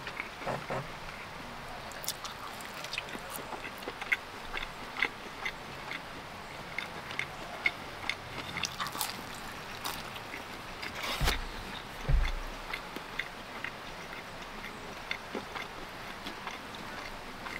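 Close-miked chewing and biting of pizza: many small crisp clicks and crunches scattered irregularly, with two low thuds against the microphone a little past the middle.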